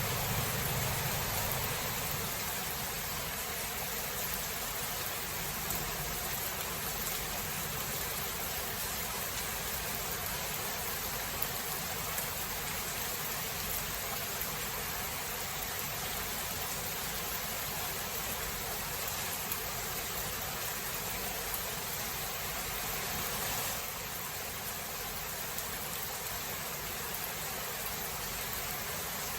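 Steady rain hiss in a thunderstorm, with the tail of a low thunder rumble dying away at the start. The rain eases slightly about three-quarters of the way through.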